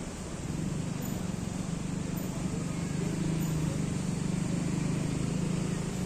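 Low, steady rumble of road traffic, swelling slightly about half a second in.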